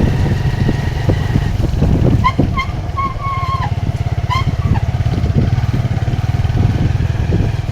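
A small engine running steadily and loudly close by, with an even, rapid pulsing drone. A few short high chirps sound over it between about two and five seconds in.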